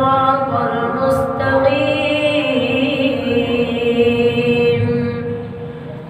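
A child's voice reciting the Quran aloud in a melodic chant: one long drawn-out phrase of held, ornamented notes that tails off near the end.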